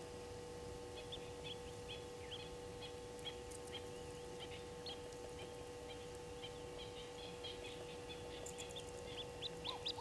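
Birds calling with short, high chirps scattered throughout, coming thicker and faster near the end, over a steady faint hum.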